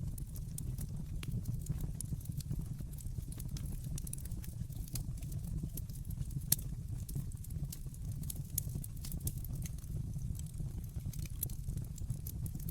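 Wood fire burning in a fireplace: a steady low rumble of the flames with frequent small crackles and snaps, and one louder pop about six and a half seconds in.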